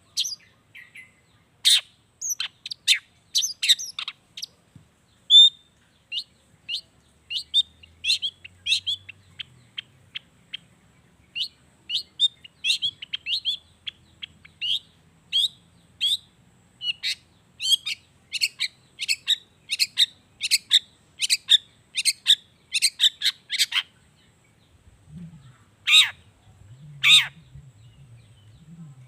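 Long-tailed shrike (cendet) singing a quick chattering song of short, sharp notes, a few each second, with two louder calls near the end.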